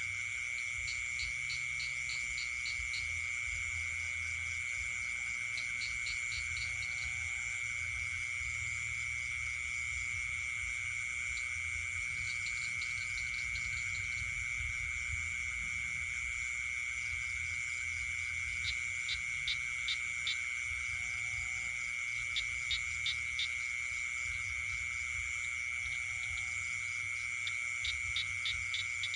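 Night chorus of frogs and insects: a steady, unbroken high trill, with short runs of rapid pulsed calls repeating every few seconds, louder in the second half.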